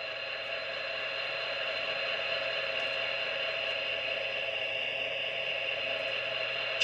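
Diesel engine idle sound from the QSI sound decoder of an Atlas HO-scale GP39-2 model locomotive, played through its small onboard speaker. A steady, even hum with a hiss that swells slightly over the first couple of seconds.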